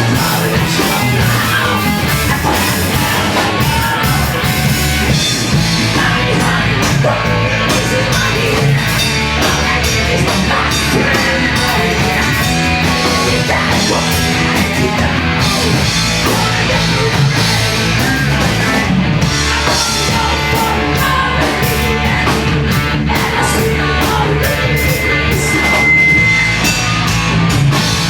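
Loud live post-hardcore/screamo band playing, with drums and guitars, and a brief high steady tone near the end.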